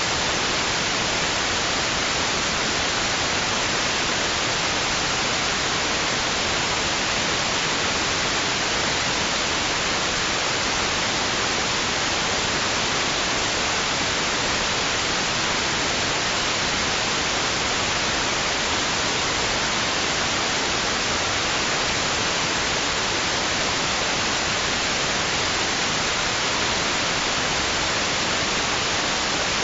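Steady white noise: an even, unchanging hiss, brightest in the treble, with no rise and fall of waves.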